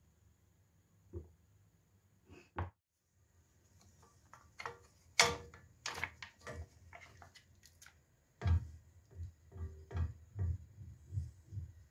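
Irregular household handling sounds: light taps and clicks, a busier clatter in the middle, then a run of soft low knocks near the end.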